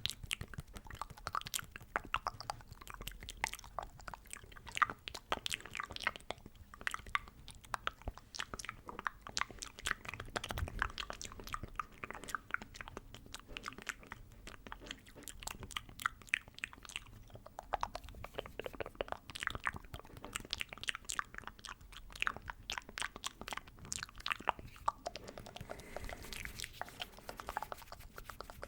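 Close-miked ASMR mouth sounds: a dense, irregular run of wet clicks and smacks of the lips and tongue, several a second, with no words.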